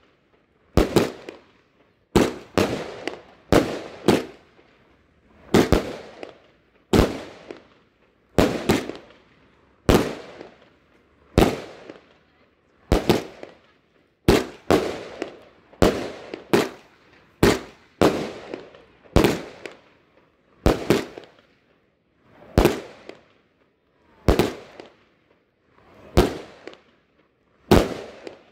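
Consumer fireworks cake, a multi-shot repeater taken for about a 50-shot, firing aerial shells in quick succession. A sharp bang comes roughly every second at uneven spacing, and each one fades out over a fraction of a second.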